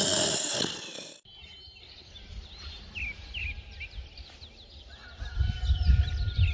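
Small birds chirping, a run of short falling calls, after a loud hiss that cuts off suddenly about a second in. A low rumble comes in near the end.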